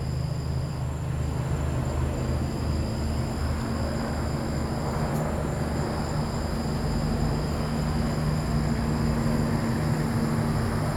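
Helicopter hovering, its rotor and engine a steady low drone.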